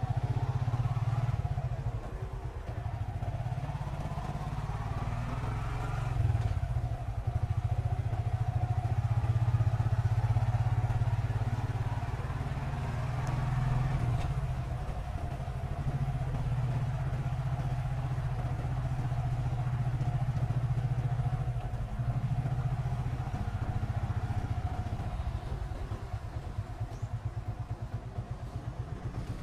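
Small motorcycle engine running at low speed through the whole stretch, the throttle opening and easing off, with the engine's firing pulses most distinct near the end as it slows.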